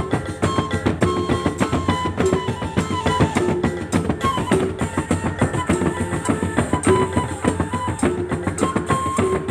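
Mandailing gordang sambilan ensemble playing: fast, dense interlocking strokes on the tuned drums, with a held, pitched melody line above the drumming.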